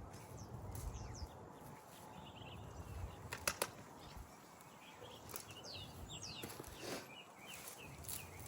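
Small birds chirping, many short quick calls scattered through. A few sharp clicks from handling in the garden, two close together about three and a half seconds in.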